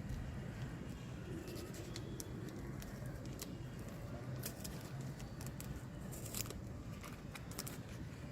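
Paper packaging being handled: scattered light rustles, crinkles and small clicks over a steady low hum.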